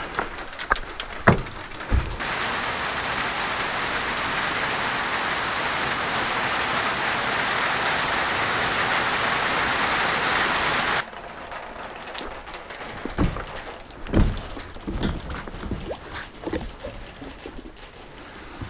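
Steady rain hissing on the lake surface and dock, stopping abruptly about eleven seconds in. Scattered knocks and thumps come before and after it.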